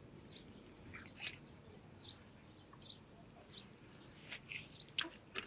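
Birds chirping: short, high calls scattered every second or so.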